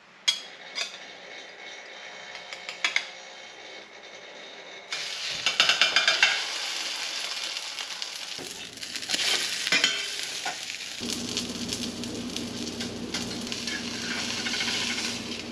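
A few clinks of a metal spatula against a plate, then a fish burger patty sizzling in a hot stainless steel frying pan from about five seconds in, with a quick run of spatula clicks on the pan as it goes in; the sizzle keeps up to the end.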